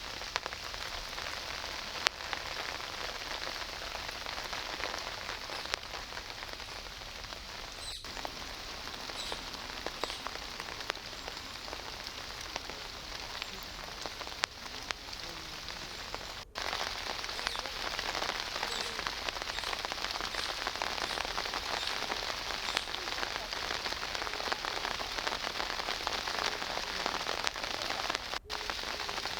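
Steady rain falling, an even hiss with scattered drop ticks; it cuts out for an instant about halfway and comes back louder.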